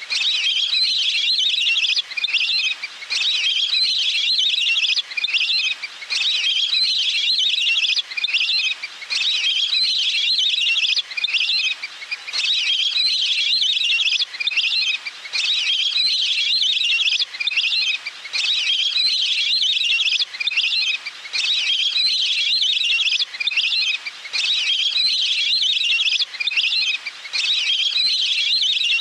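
Waterfowl calling: high, fast trilled calls in phrases that repeat about every two seconds, with brief gaps between them.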